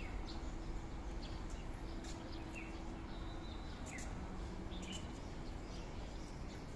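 Birds calling in short, downward-sliding chirps every second or so, with scattered faint ticks, over a steady low background noise.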